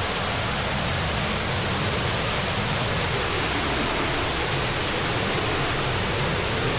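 Waterfall's steady rush of falling water, an even, unbroken noise across all pitches.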